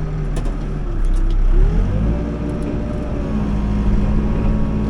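New Holland B95 backhoe loader's diesel engine running, dipping briefly and then revving up about two seconds in, holding the higher speed as the machine pulls back in to pick up a concrete chunk.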